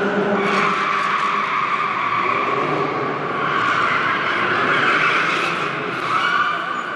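Display cars in a live action arena, engines revving hard and rising and falling, with tyres skidding.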